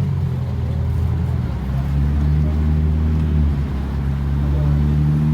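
Car engine running at a steady idle close by, a low hum whose pitch shifts slightly about a second and a half in.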